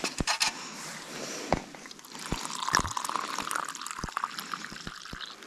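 Hot water pouring from a thermos into an instant-food cup, filling it toward its boiling-water line, with a few light clicks and knocks of the cup and lid.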